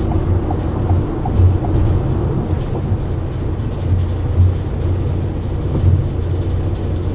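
Steady road and engine rumble inside a moving car's cabin at freeway speed, with a turn signal ticking about three times a second for the first second or so.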